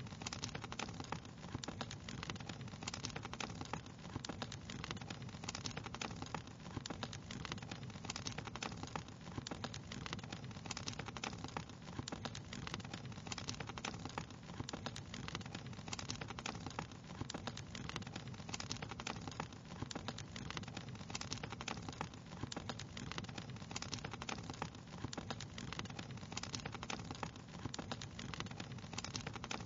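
Wood fire crackling steadily: dense, irregular small pops and snaps over a steady low hiss.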